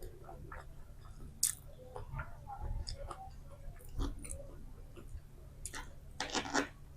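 Close-miked chewing of Maggi instant noodles: soft wet mouth sounds with scattered clicks, one sharper click about a second and a half in, and a quick run of louder mouth sounds near the end.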